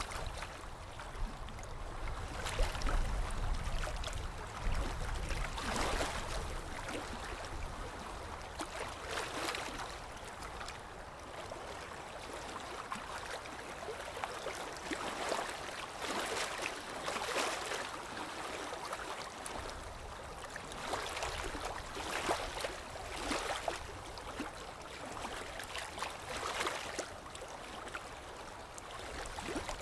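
Water lapping and splashing in irregular swells over a steady rush of moving water.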